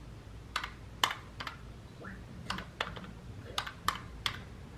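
Calculator keys being pressed, about nine separate clicks at an uneven pace, while a sum is entered.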